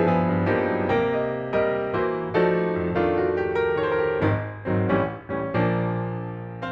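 Background piano music: gentle chords and notes struck every half second or so. A last chord near the end is held and rings out.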